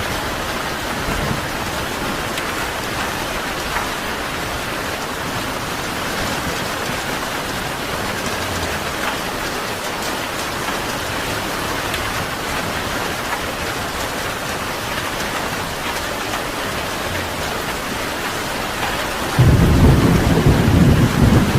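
Steady rain falling, with a loud low rumble of thunder breaking in suddenly near the end.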